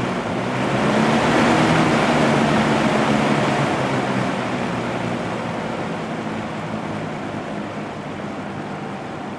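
Early-1980s Sears box fan running, an even rush of air from the blades over a steady motor hum. The air noise swells about a second in and then eases off gradually.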